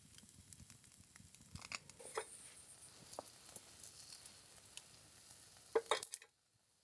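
Scattered light clicks and crinkling rustles of small items being handled, with a few sharper clicks just before six seconds in, after which the sound drops away abruptly.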